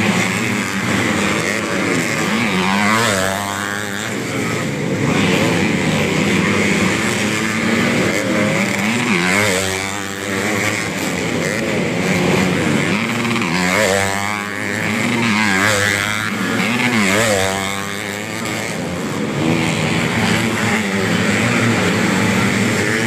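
Several underbone motorcycles racing on a motocross track, their engines revving up and dropping back again and again, the pitches of different bikes overlapping and crossing.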